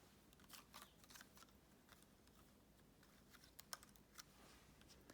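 Near silence with faint, scattered clicks of a computer being operated, about a dozen short taps spread unevenly through the pause.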